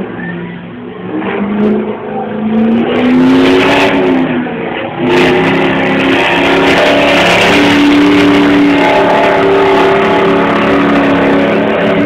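2003 Ford F-250 Powerstroke diesel pickup's engine at full throttle under load, pulling a sled. The revs climb over the first few seconds, drop briefly about four and a half seconds in, then hold loud and steady at high revs.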